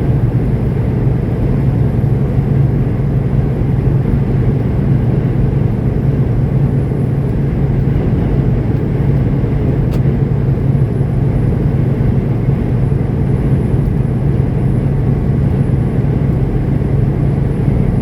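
Semi truck driving at highway speed: a steady low engine drone with road and wind noise. There is one short tick about halfway through.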